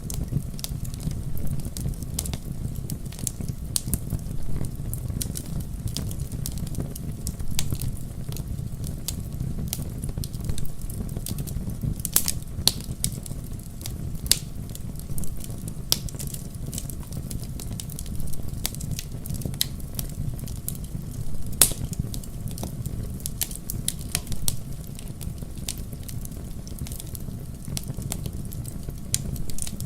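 Wood fire burning in a fireplace: a steady low rumble with frequent sharp crackles and pops, a few louder snaps about twelve seconds in and again a little past twenty seconds.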